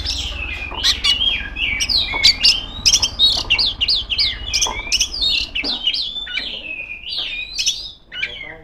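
Oriental magpie-robin (kacer) singing a loud, rapid and varied song of short whistled notes that sweep up and down, with a brief pause near the end.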